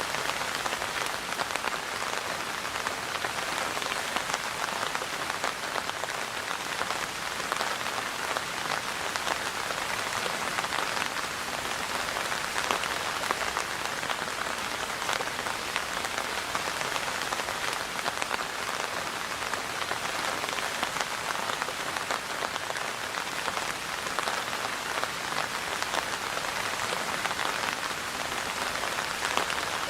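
Steady rain falling on a hard surface, a dense even hiss of many fine drop ticks.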